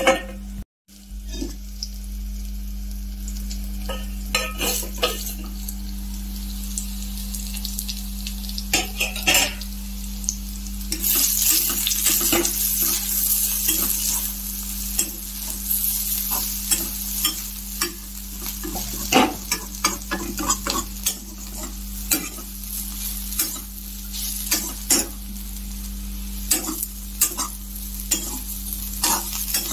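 Soya chunks and potato pieces sizzling in oil in a pan while a spatula stirs them, with frequent scrapes and clinks against the pan. The sizzle is strongest around the middle, over a steady low hum.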